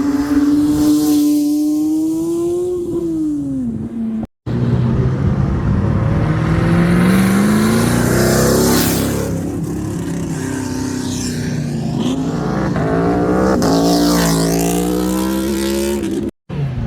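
Car engines revving and accelerating away, in three short stretches split by abrupt cuts. In each, the engine note climbs in pitch and then drops off as the car pulls away.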